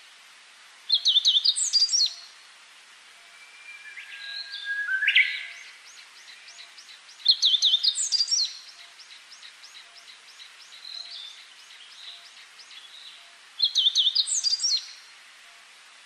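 A songbird sings three loud, quick phrases of high notes, about six seconds apart, with other birds calling more softly in between. Underneath runs the steady rush of water from a small rocky cascade.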